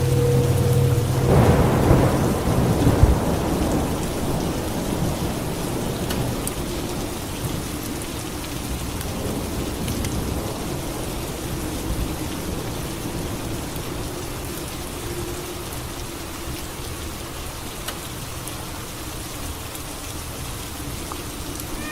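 Steady rain with a crack of thunder about a second and a half in, its rumble dying away slowly over the next several seconds.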